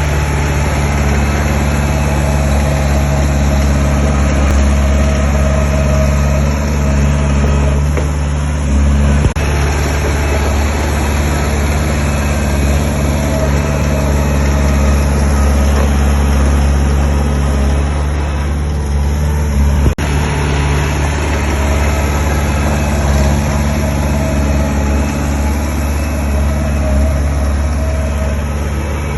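Diesel engine of heavy earthmoving machinery running steadily at a constant speed, with a deep, even drone. Two sharp clicks come through, about nine seconds in and again about twenty seconds in.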